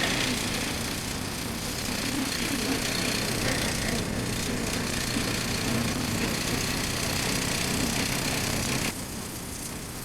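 Motorcycle engine running under way, with wind rushing over the helmet-mounted microphone. The sound drops abruptly about nine seconds in.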